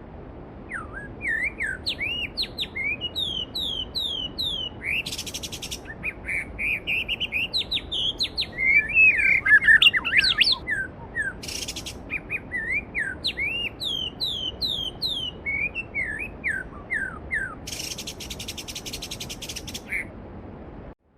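Songbirds singing series of quick down-slurred whistled notes over the steady rush of a mountain stream, with a louder tumbling warble about halfway through and a few short buzzy trills. The sound cuts off abruptly just at the end.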